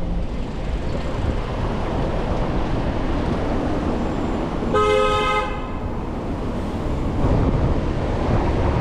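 A vehicle horn gives one short toot about five seconds in, over steady wind and road traffic noise.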